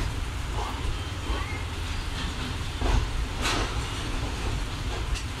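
Passenger train pulling out of the station, heard from on board: a steady low rumble of the coach rolling, with a few sharp knocks from the running gear, the loudest about three seconds in.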